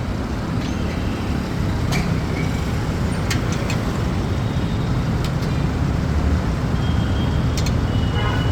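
Steady motor vehicle rumble with a few sharp clicks or taps scattered through it.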